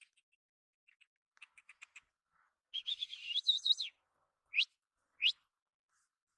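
Small bird chirping: a short run of twittering notes, then two quick upward-sweeping chirps, with a few faint clicks before them.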